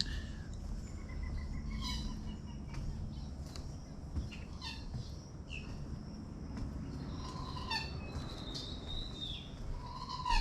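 Several birds calling in a marsh: scattered short chirps and a few brief falling whistled calls, over a low steady rumble.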